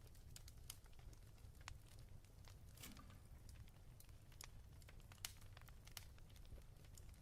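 Fireplace wood fire crackling faintly: irregular small snaps and pops over a low steady rumble, with a slightly longer crackle about three seconds in.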